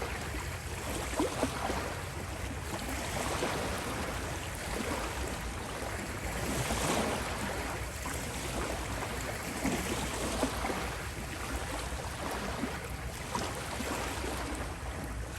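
Gentle ocean waves washing onto a beach in slow, steady swells, one wave swelling louder about halfway through.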